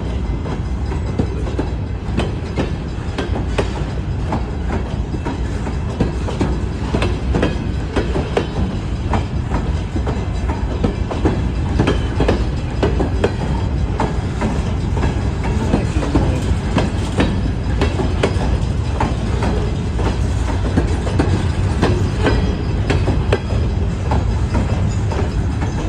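Freight train cars rolling past close by: a steady, loud rumble of steel wheels on rail with many sharp clicks and clacks as the wheels pass over rail joints.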